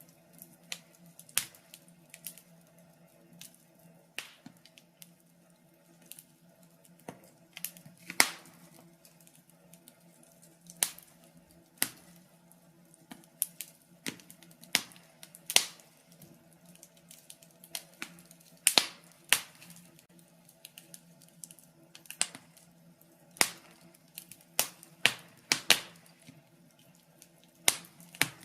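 Wood fire in a fireplace crackling: irregular sharp pops and snaps, a few of them much louder than the rest, over a faint steady hum.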